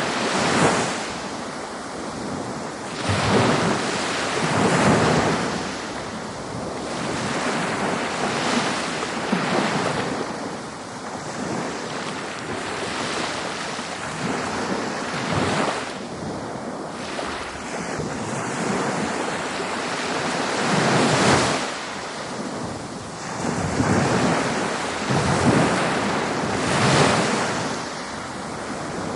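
Ocean waves breaking on a beach: a continuous wash of surf that swells every two to four seconds as each wave comes in.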